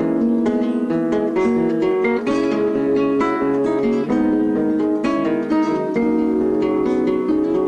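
Acoustic guitar music, plucked and strummed notes and chords at a steady level.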